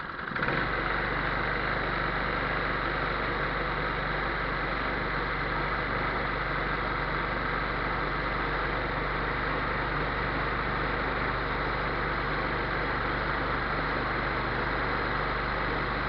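Lance scooter engine idling steadily after catching, running fairly now that a dirt dauber's nest blocking its exhaust has been cleared out.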